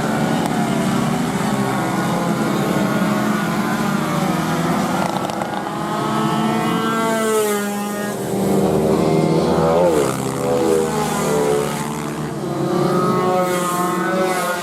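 Several racing motorcycle engines revving hard on a circuit at once. Their pitch climbs and drops as they shift and brake. One engine sweeps down sharply in pitch about ten seconds in, like a bike passing close.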